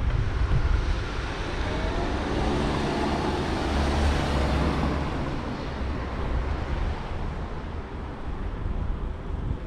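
Street traffic heard from a moving bicycle: a motor vehicle swells past over a few seconds and fades, over a steady low rumble of wind on the microphone.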